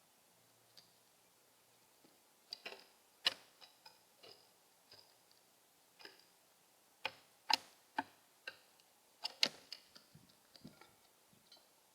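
Irregular sharp clicks and taps, about two dozen, some in quick clusters of two or three, loudest about three seconds in and again near the middle and toward the end.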